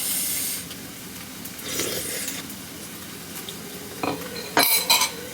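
Food sizzling in a pan, with a few sharp clinks of utensils against dishes about four to five seconds in.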